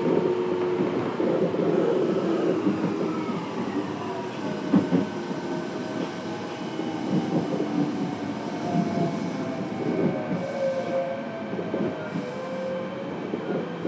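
Fukuoka City Subway 1000N-series electric train running, heard from inside the car: steady rumble with rail-joint clicks, and a motor whine that falls slowly in pitch through the second half.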